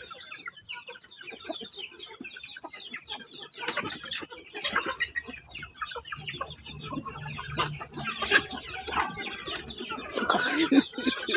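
A flock of poultry clucking and chirping together in many short overlapping calls, busier and louder from about four seconds in.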